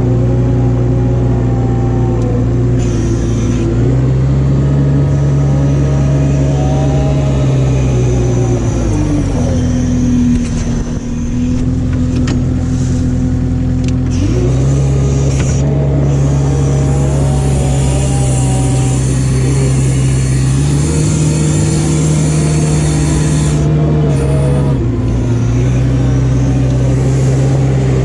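Vehicle engine running steadily, its pitch stepping up and down several times as the engine speed changes.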